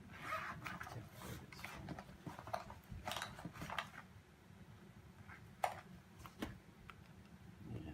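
Camera gear being handled: rustling for the first few seconds, then a few sharp clicks, the loudest about halfway through.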